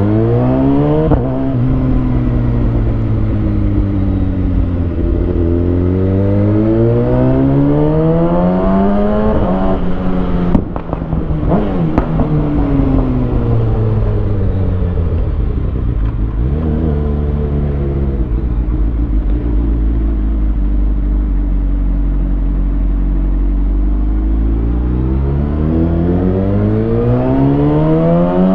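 2020 Kawasaki Ninja ZX6R inline-four engine through a Lextek SP7C carbon exhaust with decat headers, accelerating and decelerating in traffic. The revs climb and fall several times, settle low and steady for a stretch past the middle, then rise again near the end.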